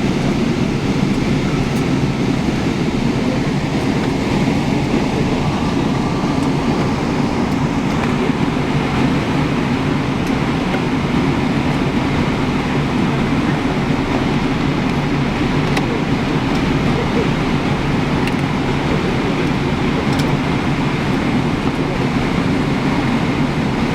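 Steady low rumble of an airliner heard from inside the passenger cabin: engines and cabin air running evenly, without a rise in pitch or loudness.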